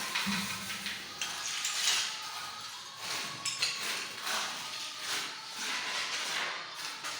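Tiling work on a building site: a string of sharp taps and clinks of hard objects, about one a second at irregular intervals, over a steady hiss.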